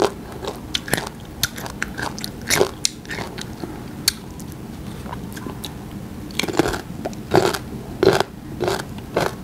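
Close mouth sounds of someone biting and chewing crisp unripe green mango with the skin on: a run of crunches that thins out in the middle and comes thick again near the end.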